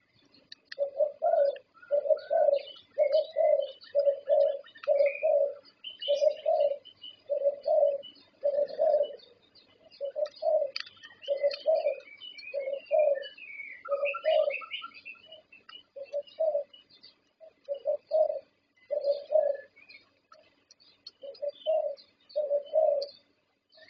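Zebra dove (perkutut) of Thai competition stock cooing: a long run of short, low coo notes, about one to two a second, in phrases with brief pauses between them. Faint high chirps of small birds sound in the background.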